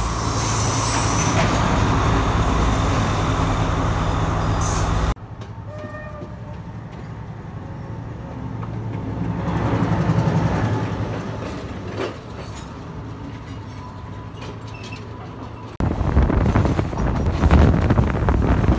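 Sri Lankan trains passing close by, in three cut-together clips. First a passenger train's carriages roll past loudly with a steady low hum. Then comes a quieter passage as a diesel locomotive goes by, its sound rising and falling about ten seconds in. Last, another passenger train runs past loudly.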